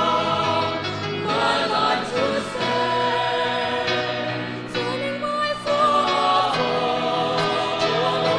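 A choir singing a gospel song with sustained, blended voices over a steady low accompaniment.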